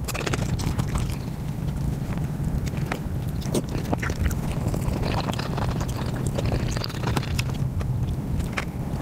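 Close-miked eating: chewing with a dense run of wet mouth clicks and smacks as naan dipped in curry and haleem is eaten, over a steady low hum.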